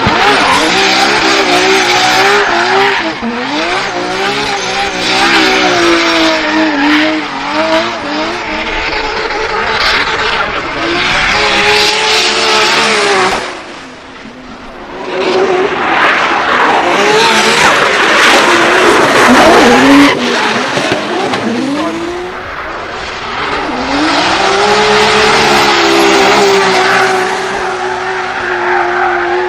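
Drift cars sliding by with engines revving up and down and tyres squealing. The sound drops off briefly about halfway through, then a second loud run follows.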